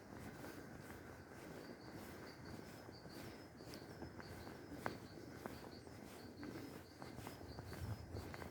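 Faint woodland ambience: a short high chirp repeated a few times a second, over low background rumble, with scattered faint clicks, one sharper click about five seconds in.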